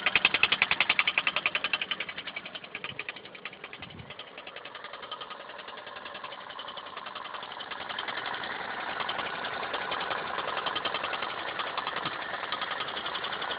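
Toyota 1ZZ-FE four-cylinder engine idling with a rapid, even knocking. The knock is loudest in the first couple of seconds, drops back, then grows louder again from about eight seconds in.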